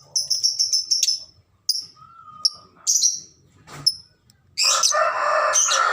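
Lovebirds chirping: short, sharp, high chirps, a quick run of several in the first second and then single chirps spaced out. Near the end comes a louder, harsher sound lasting about a second and a half.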